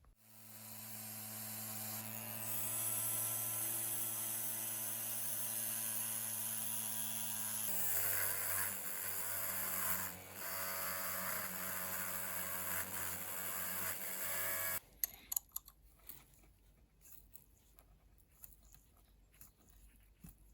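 Small electric power tool running steadily, its pitch dropping slightly and its sound getting rougher about halfway through, then cutting off suddenly; a few light clicks and knocks follow.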